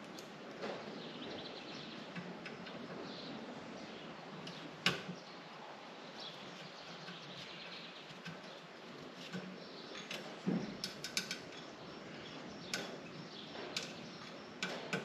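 Scattered light clicks and clinks of metal shelf parts and screws being worked loose and handled, over a faint steady hiss. There is a sharper click about five seconds in and a quick run of clicks a little past ten seconds.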